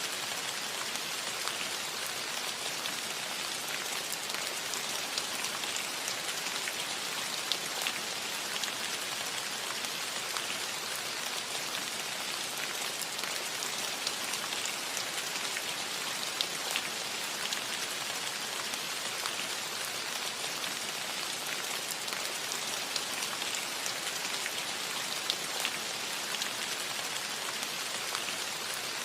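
Steady rain falling on a metal roof: an even hiss of drops with many small sharp ticks of individual drops striking the metal.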